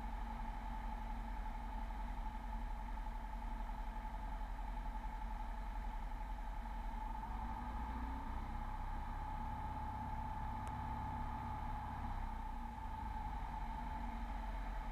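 Single-engine Beechcraft V35 Bonanza's piston engine and propeller running steadily on short final, a continuous drone with a steady hum over a low rumble. The rumble swells for a few seconds past the middle, and the hum drops slightly in pitch near the end.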